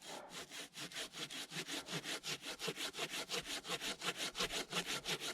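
Silky Zubat curved pull-stroke hand saw cutting through a fallen log about 10 inches thick, in fast, even strokes that start suddenly and keep a steady rhythm.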